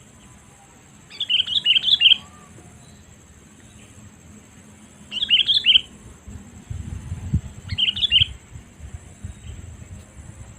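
Sooty-headed bulbul calls: three short bursts of quick, bubbly chirping notes, each under a second, a few seconds apart. An irregular low rumble runs underneath in the second half.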